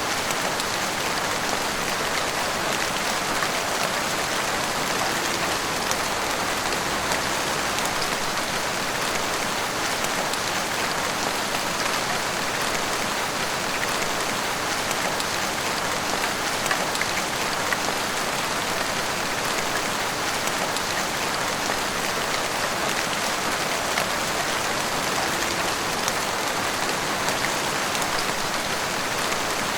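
Heavy rain falling steadily, an even hiss with scattered drop patter.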